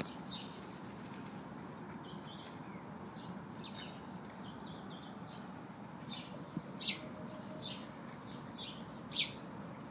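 Small birds chirping on and off in short calls, a couple of them louder near the end, over a faint steady outdoor background.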